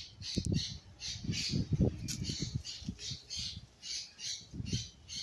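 A bird squawking in a steady run of short harsh calls, about three a second, with irregular low knocks underneath.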